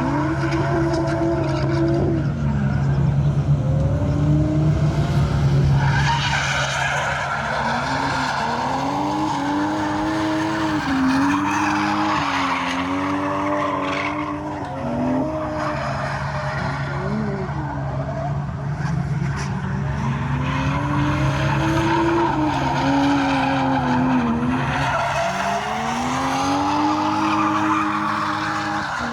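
Drift car engine revving up and down again and again, with tyres screeching as the car slides.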